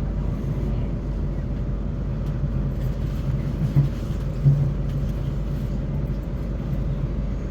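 Class 450 electric multiple unit running, heard from inside the carriage as a steady low rumble and hum. Two brief low bumps come about halfway through.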